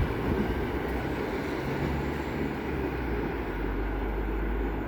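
Train running through the station: a steady low rumble, with a faint low hum in the middle.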